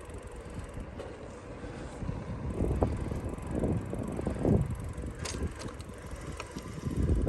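Riding a bicycle: wind buffets the microphone over a low rumble of tyres on the road, with a few sharp clicks from the bike a little over five seconds in.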